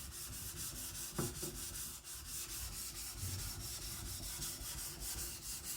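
Steel chopper blade being ground back and forth on a wet whetstone in fast, even strokes, roughly four a second, thinning the main bevel to remove its shoulders.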